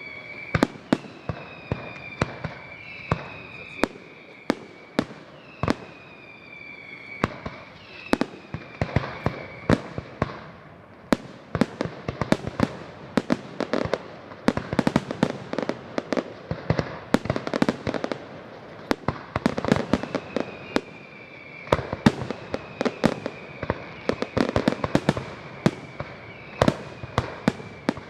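Fireworks going off: a continuous run of sharp bangs that thickens into dense crackling in the middle. Over the first several seconds, and again from about twenty seconds in, a high whistle slowly falling in pitch runs under the bangs.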